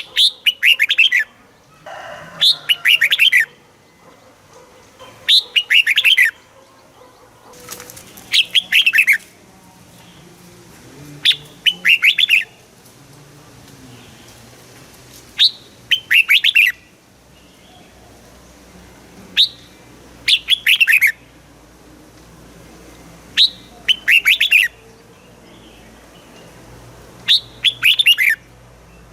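Red-whiskered bulbul singing its short phrase over and over, about every four seconds: each phrase is a quick high note followed by a run of falling notes, lasting about a second.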